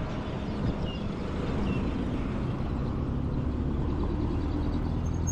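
Road traffic: motor vehicle engines running close by, with a steady low engine hum that becomes more distinct about three and a half seconds in.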